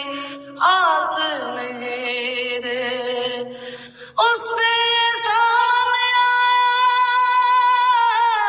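A woman singing without words in a high voice. About four seconds in she starts a long note and holds it with a wavering vibrato almost to the end.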